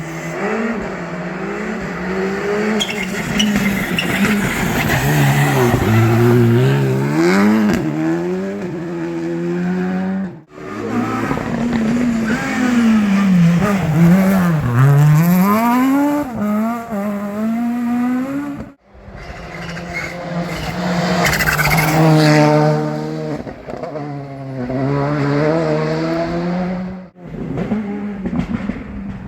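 Rally cars driven flat out on a special stage: engines revving hard, their pitch climbing and falling again and again as the drivers accelerate, shift and brake into corners. The sound cuts off abruptly three times as one car's pass gives way to the next.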